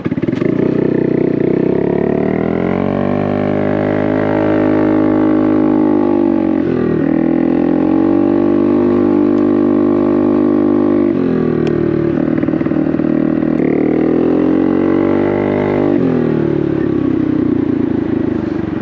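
2022 Honda Navi's small single-cylinder engine running through an aftermarket Vance & Hines exhaust as the scooter pulls away: the revs climb and hold, dip briefly and pick up again twice, then ease off near the end.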